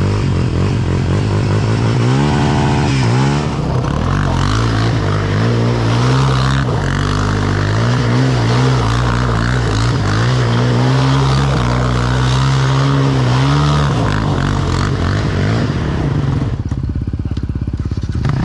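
Sport ATV engine revving and working through deep mud and water, its pitch sweeping up and back down about two seconds in, then rising and falling with the throttle. Near the end the sound turns duller for a couple of seconds.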